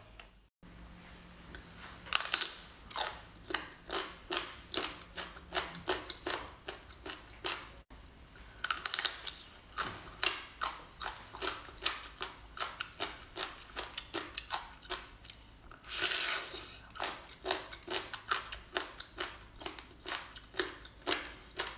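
A person chewing food close to the microphone in steady, even chews about two a second. There are louder bites about 2, 9 and 16 seconds in.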